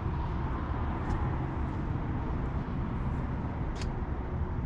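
Steady low rumble of a truck, heard from inside its cab, with a couple of faint clicks.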